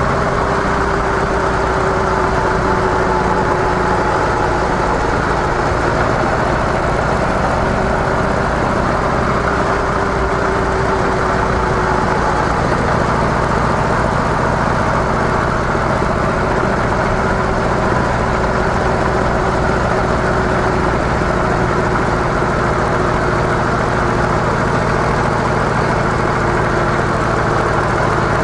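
Harley-Davidson CVO Softail's V-twin engine on stock mufflers, running steadily.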